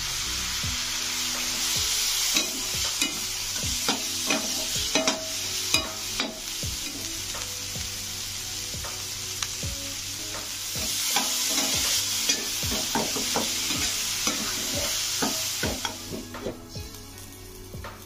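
Food sizzling as it fries in a pan while a spatula stirs it, with repeated knocks and scrapes of the spatula against the pan. The sizzle dies down near the end.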